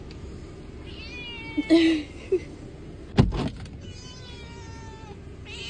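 Domestic cat meowing several times in long, high, slightly falling calls, with a sharp knock about three seconds in.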